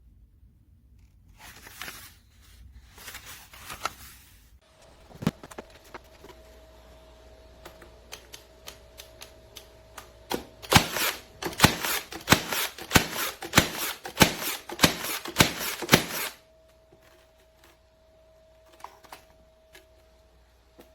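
Battery-powered 14-gauge T nailer firing repeatedly: a quick run of a dozen or so loud, sharp clacks over about five seconds, after lighter scattered clicks and handling noise.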